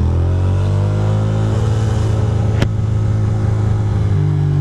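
2006 Ducati Monster 620's air-cooled L-twin engine accelerating under the rider, its note rising for the first second or so and then holding steady. There is a single sharp click about two and a half seconds in.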